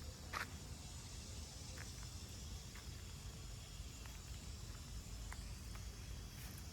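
Outdoor garden ambience: a steady low rumble with a faint, steady high-pitched hiss over it. A sharp click about half a second in, then a few faint ticks.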